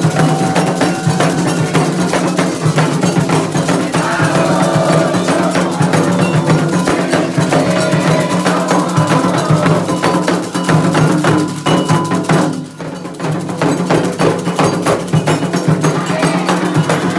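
Candomblé ritual drumming: atabaque hand drums struck in a fast, steady rhythm with an agogô-style metal bell ringing over them. The playing dips briefly about three quarters of the way through, then carries on.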